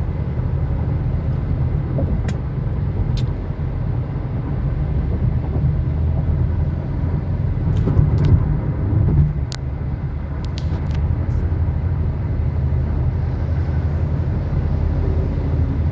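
Steady low rumble of a car on the move, heard from inside the cabin: engine and tyre noise, swelling a little about halfway through, with a few short sharp clicks.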